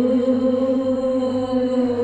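Music with one long, chant-like sung note held by a single voice, sliding slowly in pitch.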